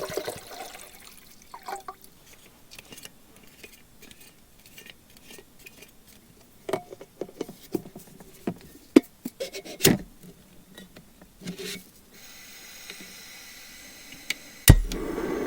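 Coffee-making gear being handled: scattered small clicks and knocks, then a faint steady hiss, and near the end one sharp click followed by a louder steady rushing sound.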